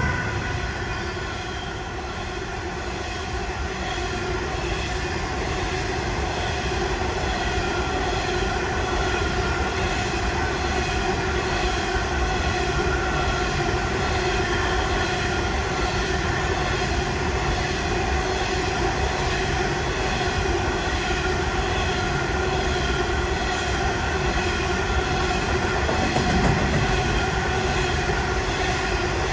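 Coal train hopper wagons rolling steadily past, a continuous rumble and rattle of wheels on rail with a steady whining tone held over it.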